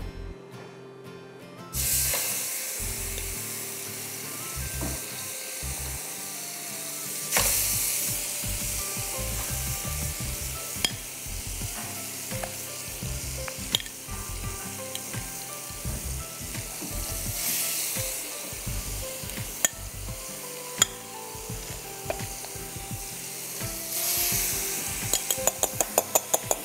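Marinated chicken tikka pieces sizzling on a hot grill pan. The sizzle starts suddenly about two seconds in and swells again a few seconds later. Scattered single clicks and a quick run of clicks near the end.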